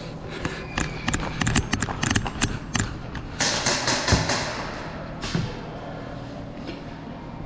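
Quick, irregular footsteps and knocks on a hard floor, with gear clattering, over the first three seconds. A short hissing burst follows about three and a half seconds in, and a fainter one shortly after.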